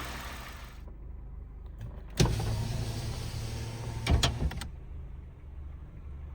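Honda Fit's four-cylinder engine idling with a steady low hum, heard from the cabin, with a sharp thump about two seconds in and a few clicks and knocks around four seconds in. After a fresh valve adjustment, the owner still hears a tick and knock from it that he fears may be rod knock.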